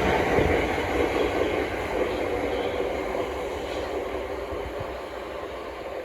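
Electric multiple-unit passenger train moving away along the line, its running noise fading steadily.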